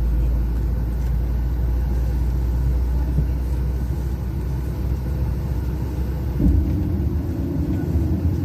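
Steady low cabin rumble of a Boeing 737-800 with CFM56-7B engines, during pushback and engine start. About six seconds in, the deepest rumble drops away and a higher, stronger hum takes over.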